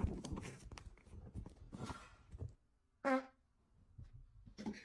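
A long fart sound: a string of rapid, uneven pops for about two and a half seconds, then a short squeaky note about three seconds in.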